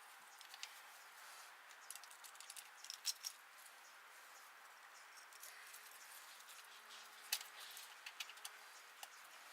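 Faint scattered clicks and light taps over a quiet hiss, the sharpest about three seconds in and again a little past seven seconds.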